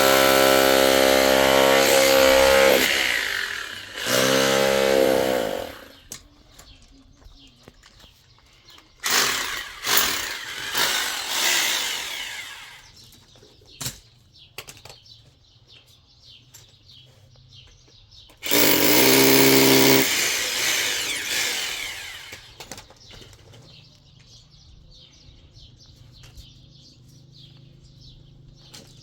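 A power tool motor running in loud short runs, three times, its pitch rising as it spins up at the start, with rougher noisy bursts in between. Birds chirp faintly near the end.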